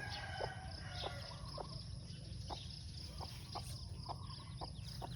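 Mother hen clucking with her young chicks: short, soft clucks repeated about twice a second.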